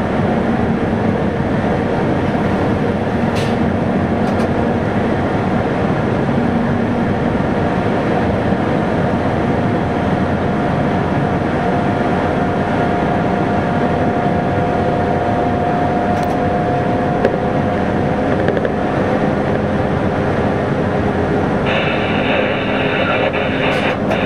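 Train running, heard from inside the driver's cab: steady engine and wheel noise. A thin steady whine sounds from about eight to nineteen seconds in, and a higher hiss comes in near the end.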